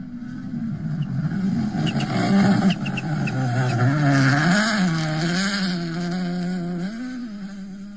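Rally car engine going past at speed, loudest a little over two seconds in. The engine note drops, then rises and falls in quick steps as the car accelerates through its gears and fades away. A few sharp clicks come as it passes.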